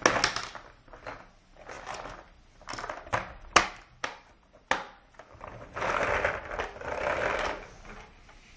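Plastic toys being handled: a series of sharp clicks and knocks, then about two seconds of rustling.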